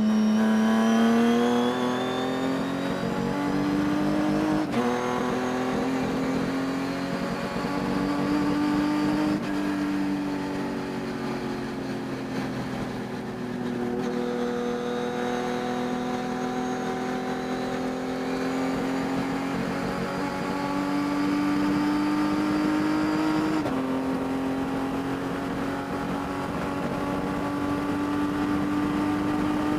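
Race car engine at high revs under racing load, its note climbing slowly through each gear and dropping suddenly at the gear changes, about five seconds in and again near the end. The engine has a high-RPM miss that the owner says can be heard during the race.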